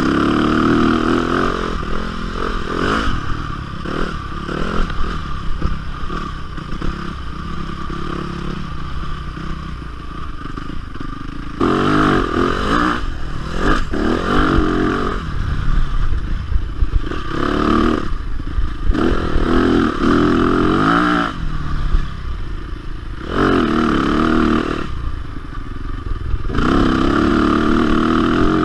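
Yamaha dirt bike engine being ridden hard, its pitch rising through repeated bursts of throttle and dropping off between them. A lower, quieter stretch runs through the first third, before the revving bursts start about twelve seconds in.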